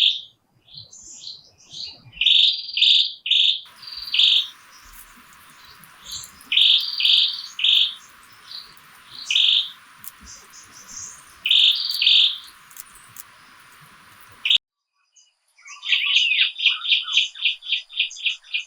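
Birds singing in short repeated phrases of clear notes. A steady hiss joins about four seconds in and cuts off suddenly near the end, and after a brief silence comes a fast trill of rapidly repeated notes.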